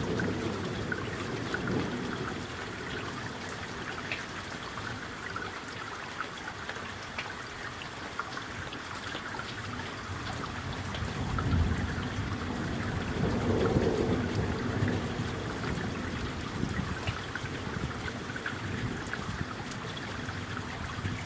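Steady rain of a summer thunderstorm, with many small drop ticks. A low rumble of distant thunder swells about halfway through and dies away.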